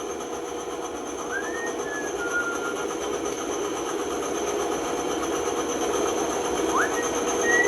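Band saw running and cutting through wood: a steady whir that slowly grows louder, with a few brief rising whines as the cut goes on.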